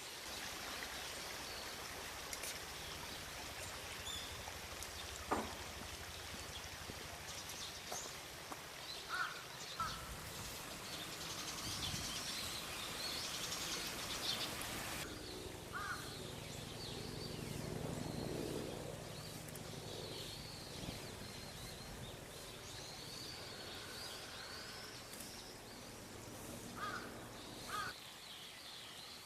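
Riverside ambience: steady background noise with small birds chirping high and a few short, sharp calls. A low droning hum swells and then fades about halfway through.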